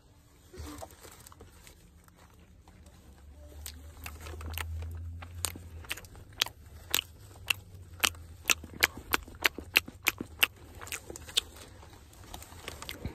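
A burger being chewed close to the microphone with the mouth open: a run of irregular smacking clicks, thickest in the middle. A low rumble comes and goes before the clicks begin.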